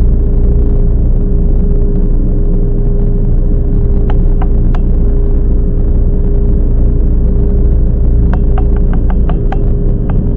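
Toyama Chiho Railway 10030 series electric train running, heard from inside the car: a loud, steady rumble with a constant hum. A few sharp clicks come about four seconds in, and a quick run of clicks near the end.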